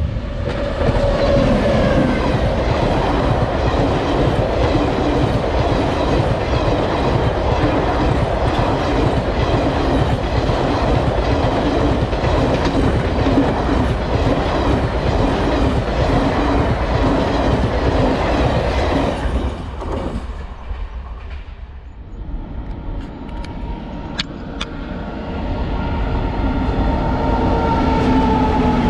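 Electric-hauled passenger express passing at speed: its coaches rush by with a rhythmic clatter of wheels over rail joints. The sound cuts off abruptly about two-thirds of the way through. Then an electric freight locomotive draws near, louder and louder, with a steady whine.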